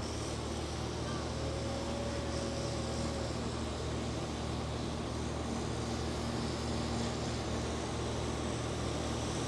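A pulling tractor's engine running at a steady drone, with no sudden changes.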